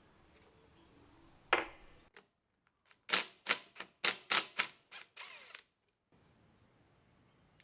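A single sharp knock, then after a pause a quick run of about eight sharp clicks, roughly three a second, each ringing briefly.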